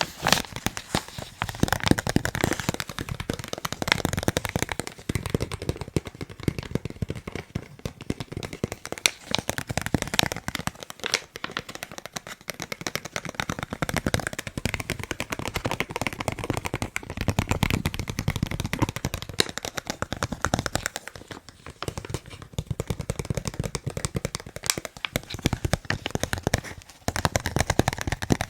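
Fast, dense tapping of fingers on a face mask: a rapid, uneven run of many small taps a second, with a light crinkling rustle.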